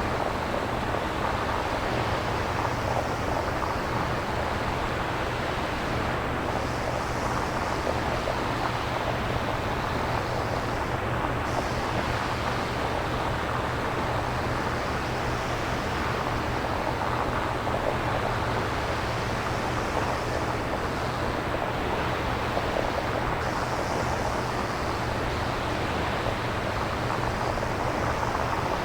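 Synthesized nature-sound noise with no samples: a steady, even hiss, heaviest in the lower range, whose upper part swells and fades slowly every few seconds, like surf.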